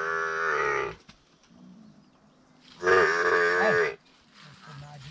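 Cattle mooing: a long moo ends about a second in, then a second, louder moo lasts about a second.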